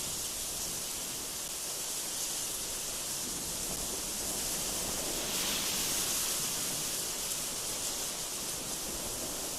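Strong, gusty wind blowing through trees: a steady hiss that swells a little about halfway through.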